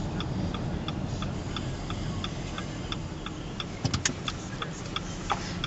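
Car turn-signal indicator ticking evenly, about three clicks a second, over the steady low road rumble inside the moving car's cabin. A few sharper, louder clicks come about four seconds in.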